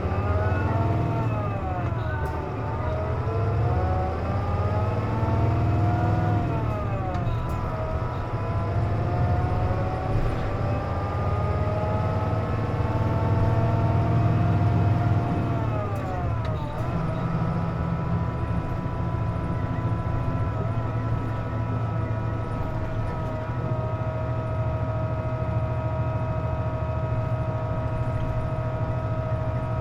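Cabin sound of a KC-JP250NTN route bus with the air conditioning running: a low diesel rumble with a whine in several tones that rises and falls with engine speed several times, then holds steady from a little past the middle. The uploader puts this unusual noise down to the air conditioning being on.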